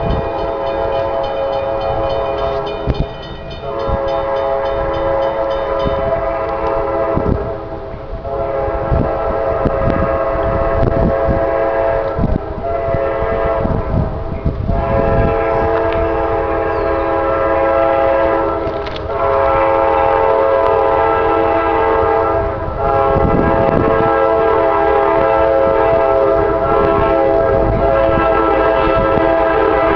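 CSX freight locomotive horn sounding a chord in long, near-continuous blasts with a few short breaks. Wheels clatter over the rails under it in the middle of the stretch and again near the end.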